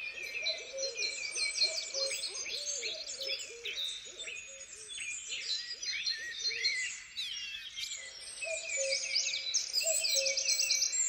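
Dense chorus of many songbirds chirping and trilling, over a lower repeated hooting note that pauses for about a second near the seven-second mark.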